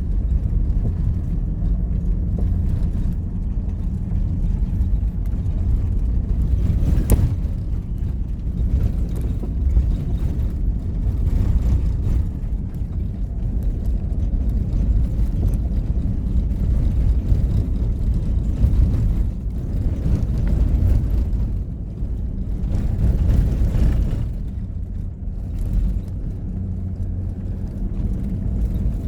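A vehicle on the move: a steady low rumble of engine and road noise that rises and falls slightly.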